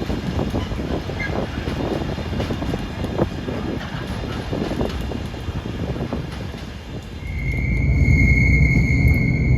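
A train running past on the line, a rumble with irregular clattering from the wheels. About seven seconds in, a louder low rumble builds and a steady high tone sounds for about two seconds.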